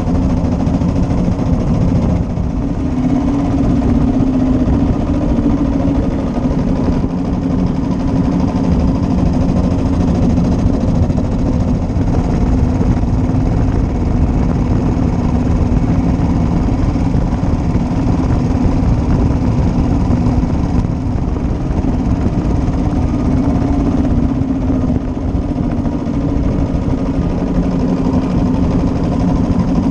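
1941 Matchless G3L's 350 cc single-cylinder four-stroke engine running steadily, its pitch rising and falling a little now and then.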